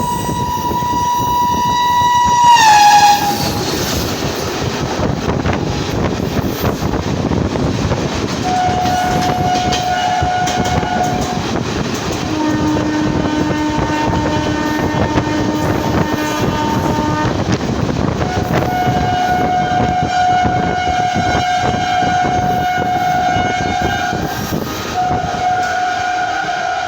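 A train horn sounds a long steady note whose pitch drops sharply about three seconds in, at the loudest point, as the train passes. The train's rumble and rail clatter follow, with several more long steady horn-like tones from about eight seconds on.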